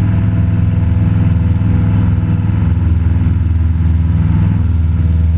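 Cessna 172 Skyhawk's piston engine and propeller droning steadily in cruise flight, heard inside the cabin.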